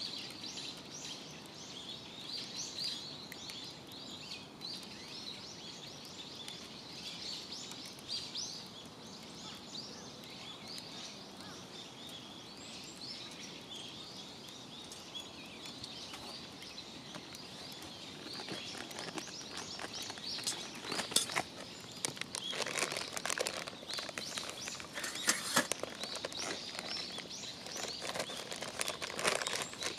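Small birds chirping outdoors. From about two-thirds of the way in, a campfire crackling and popping in irregular bursts takes over.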